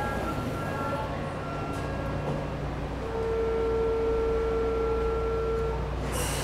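Electric commuter train standing at a station platform with a steady low hum. From about three seconds in, a steady buzzer tone holds for nearly three seconds, then a short hiss of air comes near the end.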